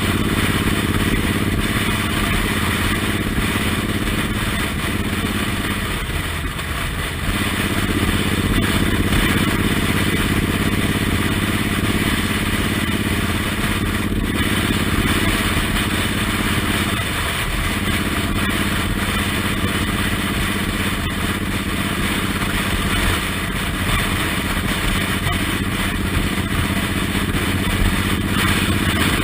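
Suzuki Intruder M1800R's V-twin engine running at a steady riding speed under a constant rush of wind noise. Its note dips briefly twice, about six and seventeen seconds in.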